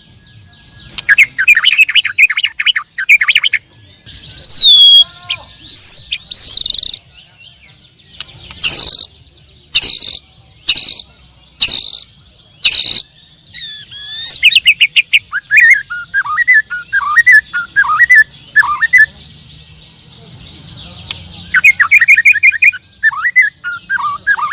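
White-rumped shamas (murai batu) singing loudly at close range: a varied song of sliding whistles and rapid trills, with a run of six sharp, harsh notes about a second apart midway, then quick chattering phrases.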